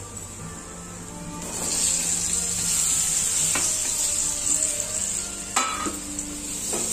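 Raw banana slices dropped into hot oil and masala in a frying pan, sizzling. The sizzle grows louder about a second and a half in and holds steady, with two sharp knocks later on.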